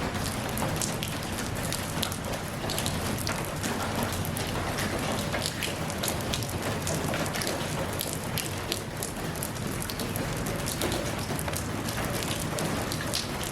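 Steady rain falling, a constant hiss dotted with many individual drops ticking on a hard surface.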